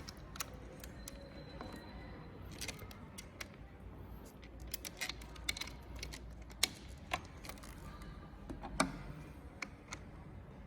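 Irregular light clicks and taps of small metal and plastic parts and hand tools being handled while fitting motorcycle handlebar controls, with a slightly louder knock about two-thirds of the way in.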